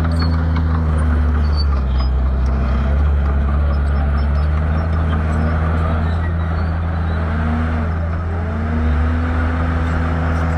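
Shantui bulldozer's diesel engine running hard, its pitch dipping and recovering several times as the load changes.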